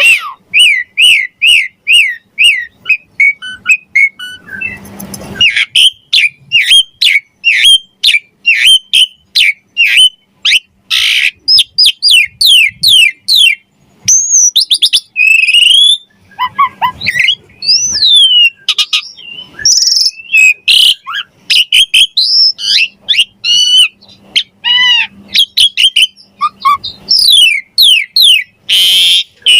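Asian pied starling (jalak suren) singing loudly: a string of repeated whistled notes about two a second, then a varied run of fast down-slurred whistles, rising and falling glides and short harsh rasping notes.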